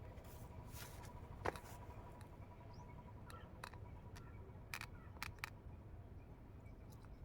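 Quiet outdoor ambience with a few scattered light clicks and taps, the clearest about a second and a half in, and faint chirps.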